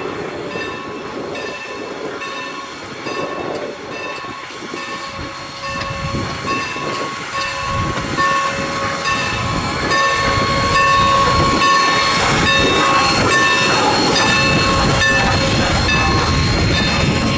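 A train approaches and grows louder, its rumble building through the passage, while a bell rings steadily at about two strokes a second.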